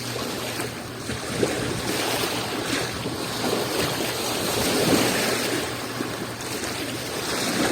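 Small sea waves washing and breaking on the shore, swelling and easing in an uneven rhythm, with some wind noise on the microphone.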